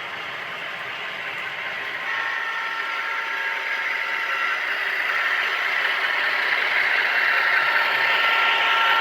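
HO scale model train running on the layout, getting steadily louder as it approaches, with a few steady high tones joining about two seconds in.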